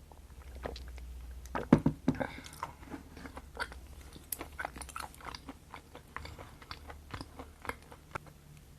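Close-miked mukbang eating: a loud bite about two seconds in, then steady chewing with many small wet mouth clicks.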